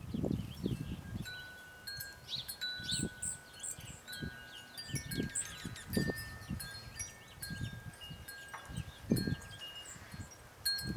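Wind chimes ringing, several held metallic tones at different pitches overlapping, with short high bird chirps over them and repeated low thumps throughout.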